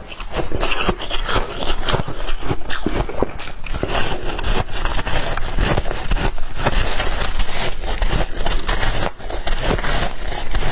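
Close-miked crunching and chewing of white ice: a dense, continuous run of crackling crunches as the ice is bitten and ground between the teeth, with a brief lull a little after nine seconds.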